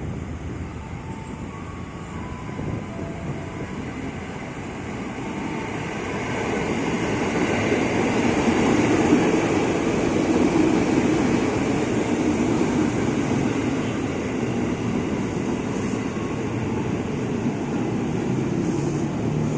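A train running past on the tracks, a continuous rumble that builds to its loudest about nine seconds in and then holds a little lower.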